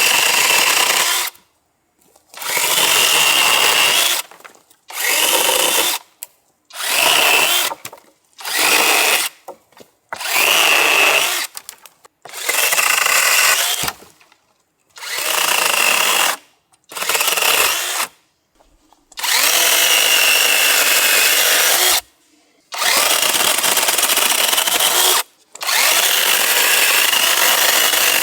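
Onevan dual-battery brushless cordless top-handle chainsaw running in about a dozen short bursts of one to three seconds as the trigger is pulled and released, a steady high whine over chain noise that stops dead between bursts, the saw cutting into a dead tree.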